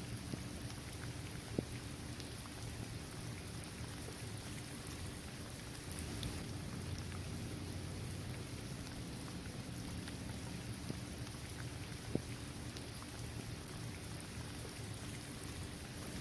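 Steady rain falling on a basketball court, trees and grass, with individual drops ticking now and then; two sharper drop hits about a second and a half in and about twelve seconds in.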